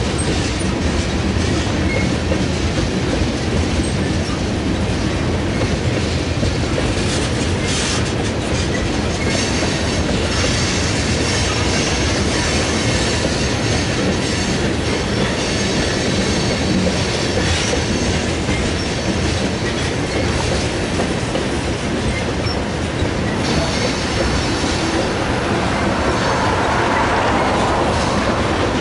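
Freight cars of a slow-moving train rolling past, their steel wheels clicking steadily over the rail joints, with squealing from the wheels.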